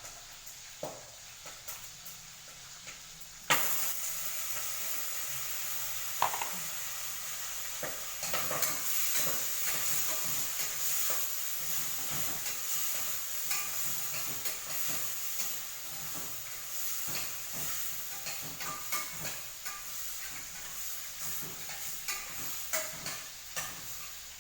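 Food sizzling in hot oil in a pan. The sizzle starts suddenly about three and a half seconds in and carries on steadily, while a utensil stirs it, clicking and scraping against the pan.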